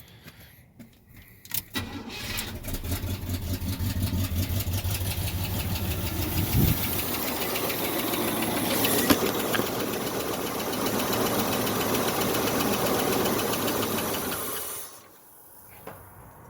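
1978 Chevy C10 engine, long out of use, cranking over on the starter with a quick, even rhythm for about thirteen seconds, then stopping suddenly. It does not keep running because the fuel line was left disconnected.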